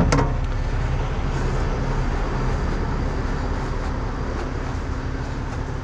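Heavy diesel truck engine idling steadily, with one sharp clink of tools near the start.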